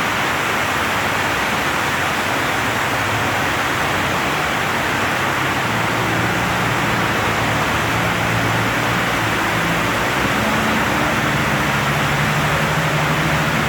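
Heavy rain pouring down, a loud, steady hiss. A low hum comes in about halfway through and grows near the end.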